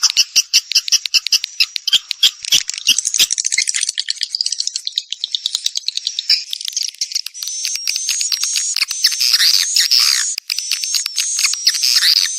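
Swiftlet courtship calls: a fast run of rapid clicking chirps, changing about halfway through to repeated twittering chirps that bend in pitch.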